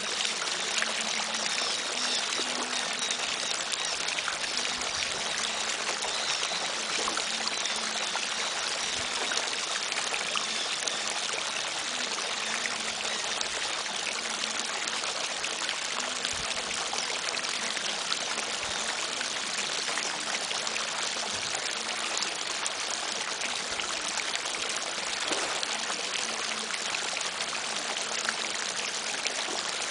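Running water, a steady continuous rush and trickle that does not change.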